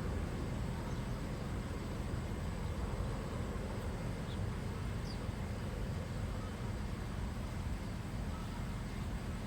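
Steady low outdoor rumble with no clear pitch, with two faint, brief bird chirps about four and five seconds in.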